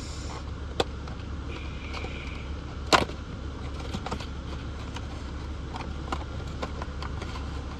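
Steady low drone of a car heard from inside the cabin, with scattered clicks and taps from handling a model airplane and its box and packaging. The sharpest click comes about three seconds in.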